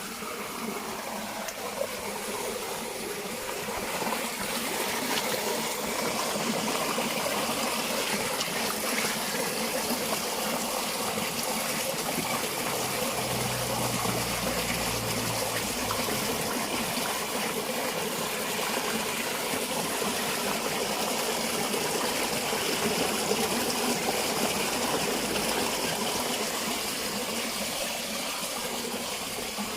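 Steady rain with water running and gushing, an even hiss that swells a few seconds in and eases near the end.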